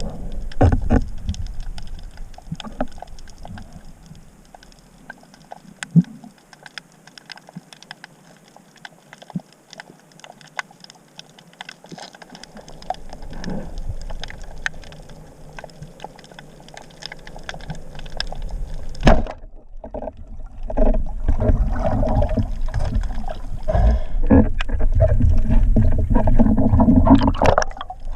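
Water sounds picked up by a camera in the sea: scattered sharp clicks and crackles over a faint background, then, after a brief drop about two-thirds in, a louder continuous rushing and gurgling of water.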